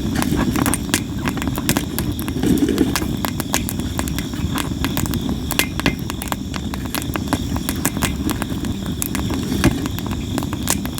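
Campfire of sawara (Japanese cypress) wood burning, with a constant run of sharp crackles and pops over a low rush of flame.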